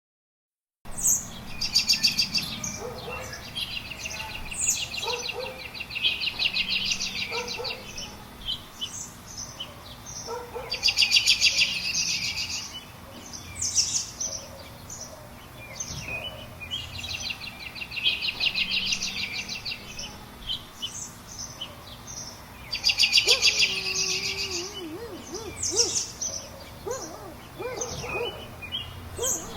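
Wild birds singing outdoors. One bird repeats a fast, high trilled phrase every few seconds, with shorter chirps and calls between. The sound starts abruptly after about a second of silence.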